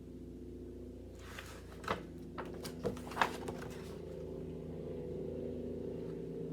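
A steady low hum with a handful of short clicks and rustles in the first half.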